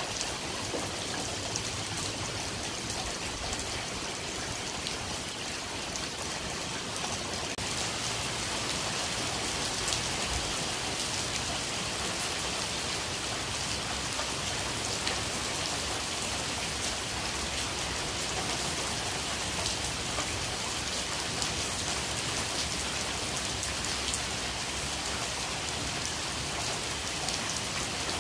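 Heavy, steady rain falling on brick paving, lawn and a street, an even hiss with scattered sharper drop hits.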